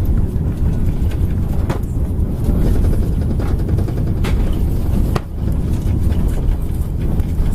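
Airbus A330-300 cabin noise: a steady, loud low rumble, with a few short knocks or rattles at about two, four and five seconds in.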